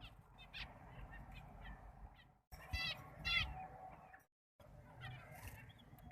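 Budgies chirping and squeaking, with two louder, raspy calls close together near the middle. The sound comes in short pieces that cut off abruptly into silence.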